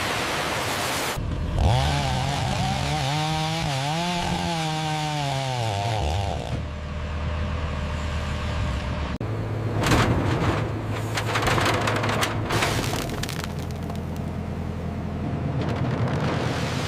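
Industrial wood chipper's engine running under load, its pitch rising and sagging for several seconds before settling into a low steady drone. About nine seconds in, a run of sharp cracks and knocks comes over the drone as wood is fed through and chipped.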